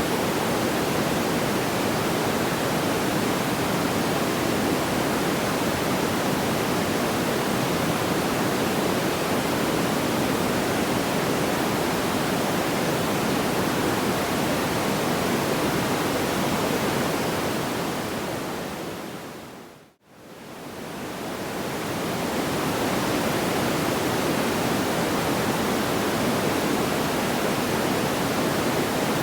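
Steady, even rushing noise like pink noise, with no distinct crackles or pops. About twenty seconds in it fades down to silence and straight back up, the seam of the loop.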